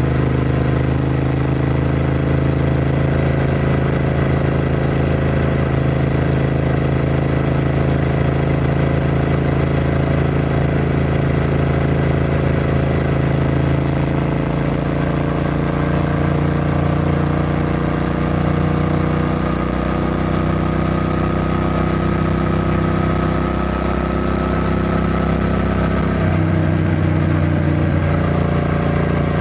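Triumph Bonneville T120's 1200 cc parallel-twin engine running steadily, its note creeping slowly upward through the middle, with a brief change in the note near the end.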